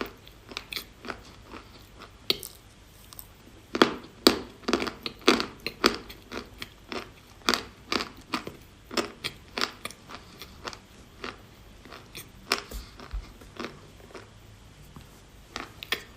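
A person biting and chewing pieces of chalk close to the microphone: an irregular run of sharp, crisp crunches, densest and loudest about four to six seconds in.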